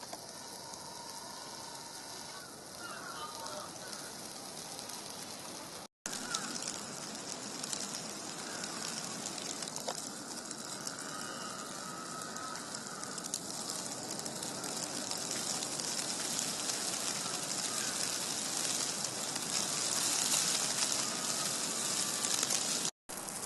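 Steady fine hiss and crackling patter of wet snow falling in a heavy snowstorm. It grows a little louder near the end and is broken twice by a split-second dropout.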